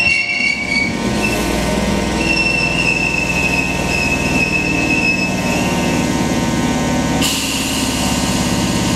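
Sanyo Electric Railway 3000 series electric train pulling in and braking to a stop, with high-pitched squealing from the wheels and brakes over a low rumble. About seven seconds in, once the train has stopped, a sudden steady hiss starts.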